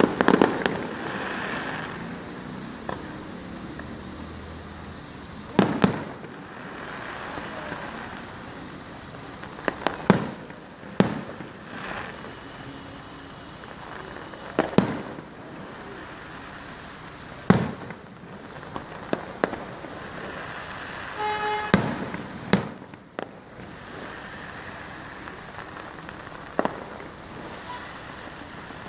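Fireworks going off: about ten sharp bangs a few seconds apart, over a steady hiss. A brief pitched tone sounds about two-thirds of the way through.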